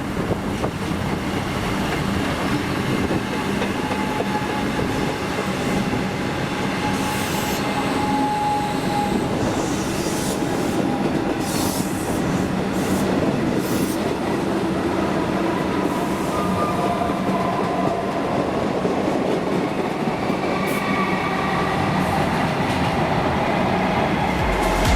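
Suburban electric train running through the station, a steady rumble of wheels on rail with brief high wheel squeals in the middle.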